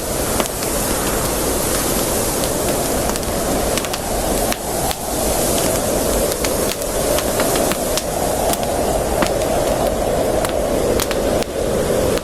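Campfire crackling: frequent sharp snaps and pops, irregular, over a steady rushing hiss.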